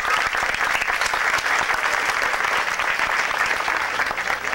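Crowd in the stands applauding, a dense clatter of many hands clapping that thins out near the end.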